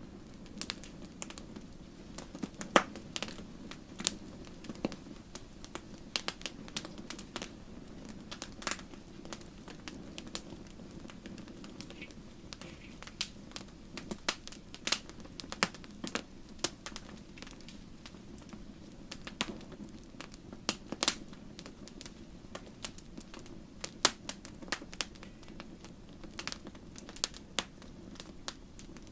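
Wood campfire crackling: irregular sharp pops and snaps, a few louder ones, over a steady low hiss of the burning fire.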